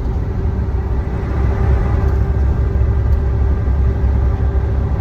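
Truck cab noise while driving: the engine and road give a steady low rumble with a faint steady hum over it.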